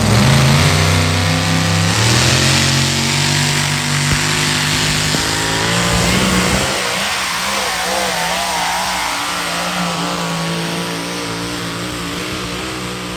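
Pulling truck's engine running hard at high revs under heavy load, with loud exhaust noise. Its pitch climbs about two seconds in and wavers around the middle.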